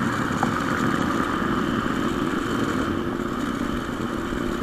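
Motorcycle engine running at a steady speed while riding, with road and wind noise.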